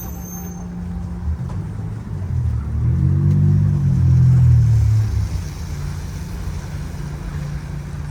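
Street traffic, with one motor vehicle's engine passing close and loud about three to five seconds in, its pitch rising then falling as it goes by.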